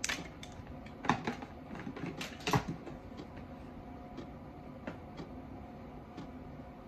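A few sharp knocks and clicks, the loudest about a second in and again about two and a half seconds in, then scattered faint ticks over a faint steady hum.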